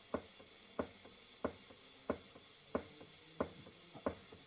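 Stuart Turner 'Mary' model beam engine running on compressed air: its exhaust chuffs in a steady rhythm of about one and a half beats a second, like a steam train.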